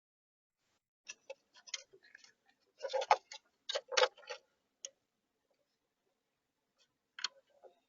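Irregular sharp clicks and knocks close to the bird-feeder camera's microphone, in a cluster starting about a second in with the two loudest about a second apart, then a few more near the end.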